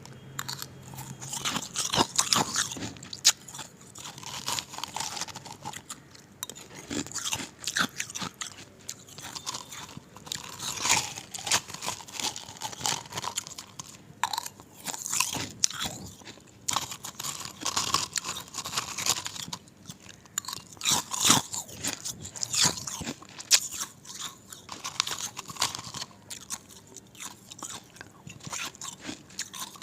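Ice being bitten and chewed, a continuous run of irregular, sharp crunches.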